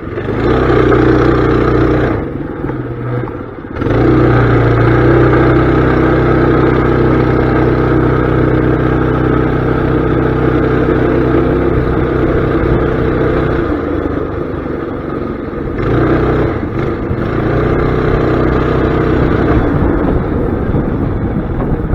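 Mini bike engine running steadily under throttle, easing off about two seconds in and picking back up just before four seconds in.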